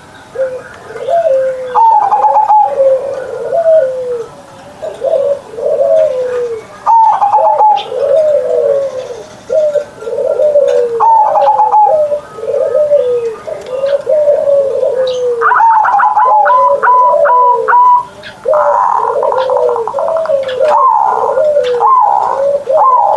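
Zebra dove (perkutut) cooing over and over. Each phrase opens with a higher note and runs into a string of short, falling coos.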